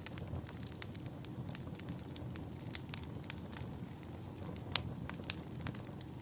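Fireplace fire crackling: irregular sharp pops and snaps over a steady low rumble, with a couple of louder pops near the end.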